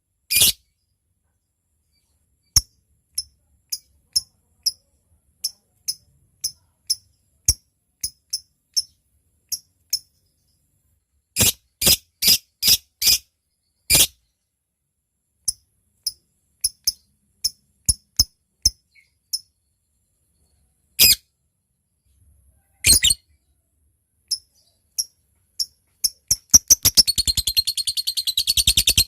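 Lovebird calling: sharp single chirps spaced a fraction of a second to a second apart, the 'ngetik' call, with a few quick clusters. Near the end it breaks into a long, rapid, rattling trill, the 'ngekek' call.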